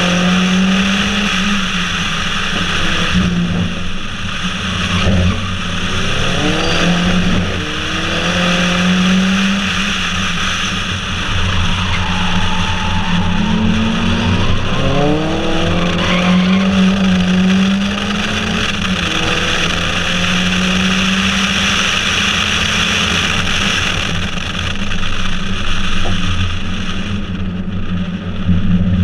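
Mk1 Ford Focus RS's turbocharged four-cylinder engine on a Milltek exhaust, revving hard and changing up through the gears again and again, under heavy wind and road noise. Near the end the wind noise drops away as the car slows.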